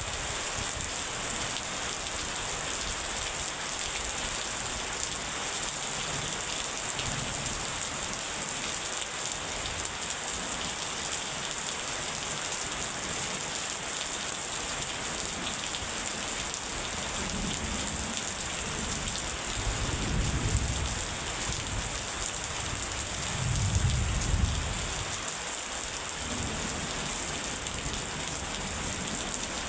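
Steady rain falling in an even hiss, with two low rolls of thunder in the second half, the second one the loudest.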